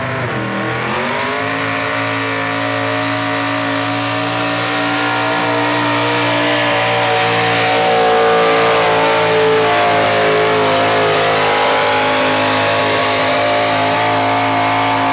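Truck engine under full throttle pulling a weighted sled. Its note dips and climbs back in the first second or two, then holds at high, steady revs until it cuts off at the end.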